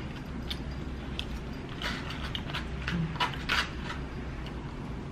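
Close-miked eating sounds: chewing with scattered short mouth clicks and smacks, and a plastic utensil in a cup of red beans and rice. A low steady hum runs underneath.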